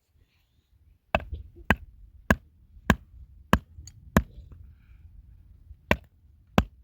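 Food being chopped with a knife, sharp strokes about every 0.6 s: six in a row, a short pause, then two more near the end.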